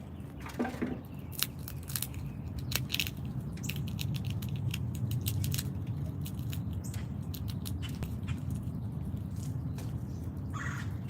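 Irregular sharp clicks and cracks of small animals feeding at a backyard seed feeder, over a steady low rumble. There is a brief lower sound just under a second in and a short higher-pitched sound near the end.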